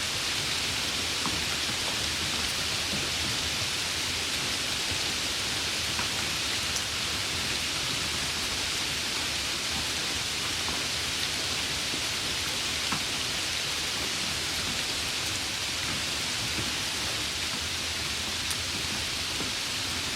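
Steady rain, an even hiss with scattered faint ticks of drops striking a surface.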